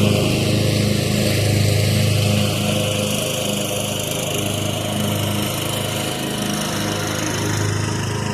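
Craftsman riding lawn mower's engine running steadily as it mows, a low even hum that eases slightly in level partway through.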